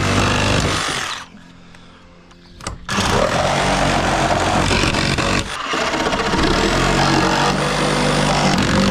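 Power saw running under load while cutting out deck framing. It cuts off about a second in, starts again near three seconds, and runs steadily with a brief dip in the middle.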